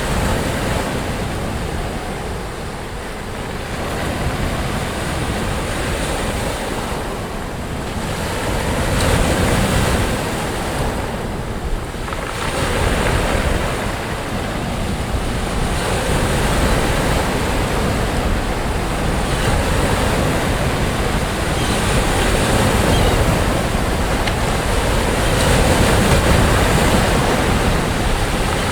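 Sea waves breaking on a beach, a continuous wash of surf that swells and eases every few seconds, with wind rumbling on the microphone.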